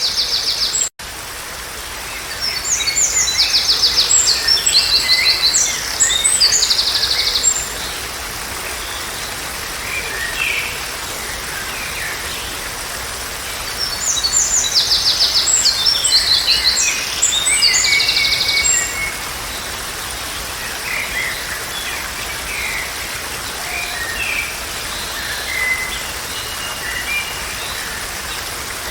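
Songbirds singing in fast trilled phrases, with two long bouts of song several seconds apart and scattered chirps between, over a steady rushing hiss. A brief dropout cuts the sound about a second in.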